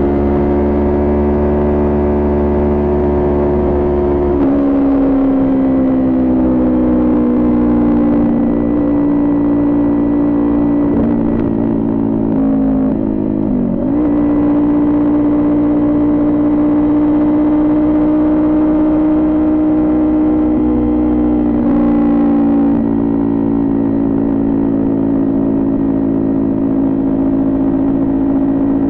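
Kawasaki Ninja 400 parallel-twin engine with a Coffman exhaust, running under way at steady revs. Its pitch drops about four seconds in, sags slowly over the next several seconds, dips and recovers briefly around thirteen seconds, and drops again near twenty-two seconds.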